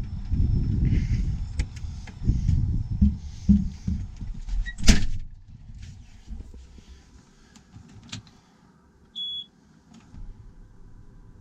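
Uneven low rumbling and knocking, then a sharp slam about five seconds in, like a vehicle door shutting, after which it goes quiet apart from a faint steady hum, a click and one short electronic beep.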